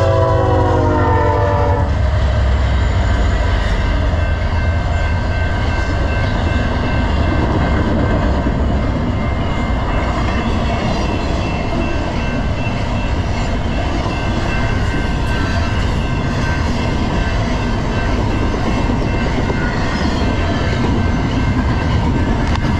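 Train horn blowing a chord of several tones, cutting off about two seconds in, then the steady rumble and clatter of a passing train's wheels on the rails.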